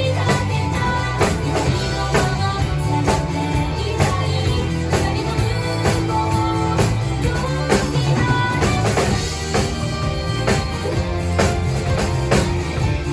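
Drum kit played along to a pop-rock song with sung vocals and guitar, the drums keeping a steady beat of about two hits a second.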